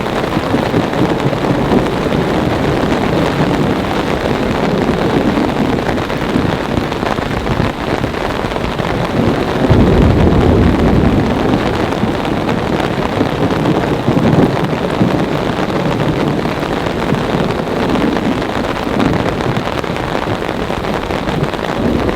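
Heavy rain pouring down steadily in a thunderstorm, with thunder rumbling, loudest and deepest about ten seconds in.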